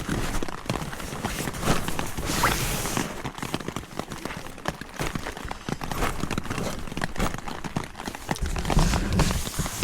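Rain pattering on a surface, with many irregular small knocks and rustles, and a low rumble near the end.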